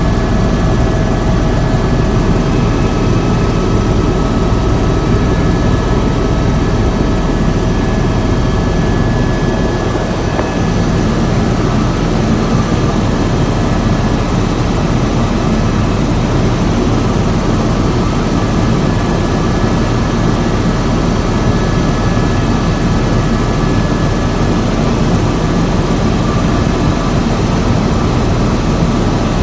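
Helicopter in flight, its rotor and turbine making a loud, steady drone with a constant high whine over it.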